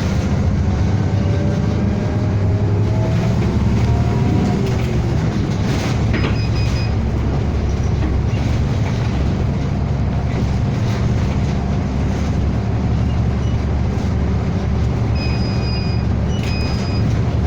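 City bus heard from inside the cabin: a steady low drone of the engine and road noise. A whine rises in pitch over the first few seconds as the bus picks up speed. Short high-pitched beeps sound about six seconds in and several more times near the end.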